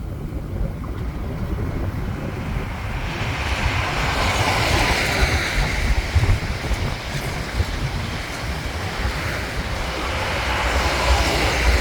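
NSW TrainLink XPT diesel passenger train passing, with the rush of the train and its wheels on the rails swelling about three seconds in and again near the end. Heavy wind buffets the microphone throughout.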